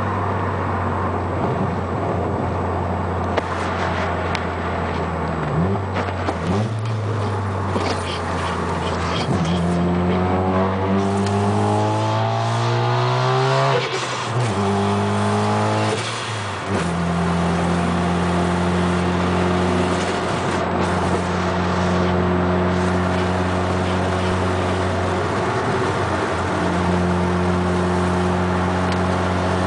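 Mazda RX-7 FD3S's single-turbo 13B twin-rotor rotary engine under way. It runs steadily at first, then accelerates with the engine note climbing, drops briefly at a gear change about halfway through, and climbs again. It settles back to steady cruising at a higher pitch.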